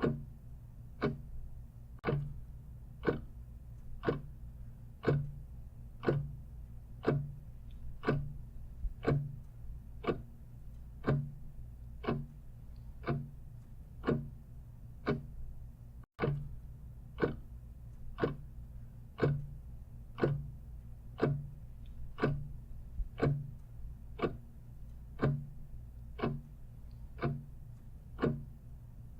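Clock ticking steadily about once a second, with louder and softer ticks alternating as a tick-tock, over a low steady hum. The sound drops out for a split second about sixteen seconds in.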